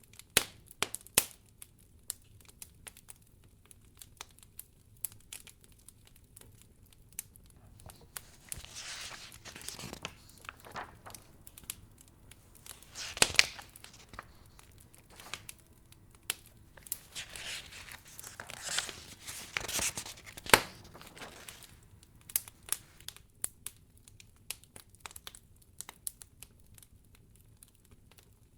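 Wood fire crackling in a fireplace, with scattered sharp pops and snaps. There are two longer stretches of soft rustling, about a third and two-thirds of the way through.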